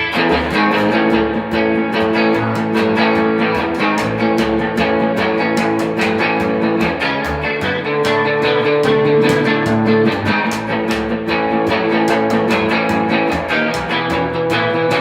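A rock band playing an instrumental boogie: electric guitar and bass over a steady drum beat.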